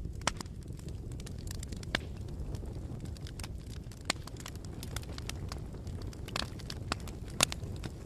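Wood fire burning with a steady low rumble and irregular sharp crackles and pops, one louder pop near the end.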